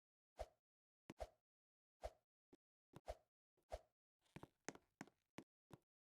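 A series of faint, short knocks, about a dozen at irregular intervals, with dead silence between them.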